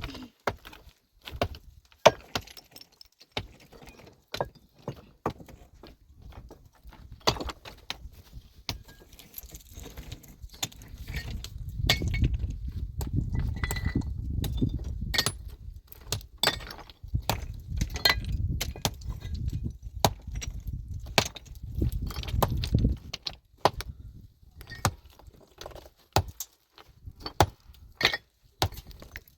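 Pickaxes and hand tools striking rock, with stones clinking and knocking as they are broken and shifted: sharp, irregular impacts throughout. A low rumble comes in about a third of the way through and stops suddenly about three quarters of the way through.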